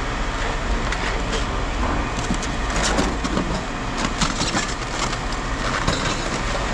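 Irregular clattering and knocking of objects being handled, over a steady low rumble.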